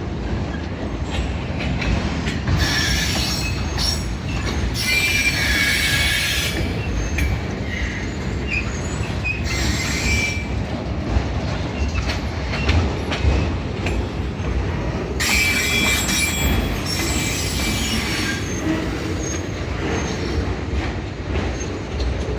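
Freight train cars rolling past with a steady low rumble, broken by several spells of high metallic squealing from the steel wheels, each lasting one to three seconds.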